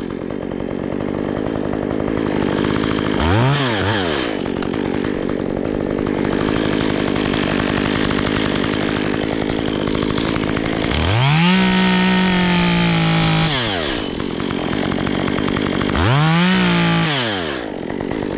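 Petrol chainsaw idling steadily, revved briefly about three seconds in, held at high revs for a couple of seconds a little past the middle, and revved once more near the end.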